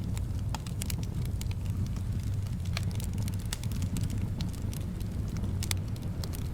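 Wood fire crackling in a fireplace, with frequent irregular pops and snaps over a steady low rumble of flames and soft wind.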